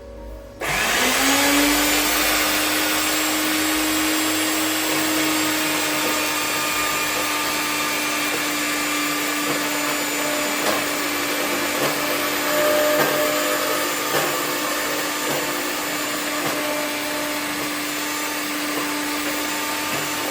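An electric motor-driven machine spins up about half a second in, rising in pitch to a steady whine with a loud hiss over it. It runs evenly for about 20 seconds, then winds down and stops near the end.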